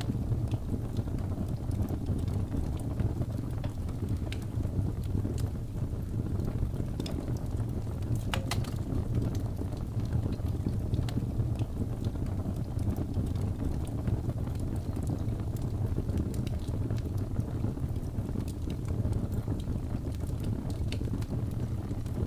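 Wood fire burning: a steady low rumble of flames with scattered sharp crackles and pops, one louder pop about eight seconds in.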